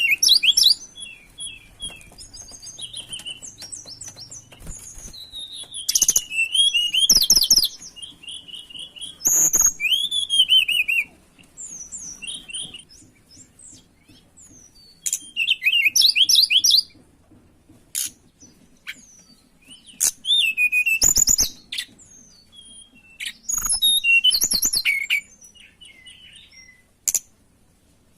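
Tledekan songbird in breeding condition singing hard: loud bursts of rapid, varied, sweeping whistles and chatters, mostly high-pitched, in about eight phrases with short pauses between them.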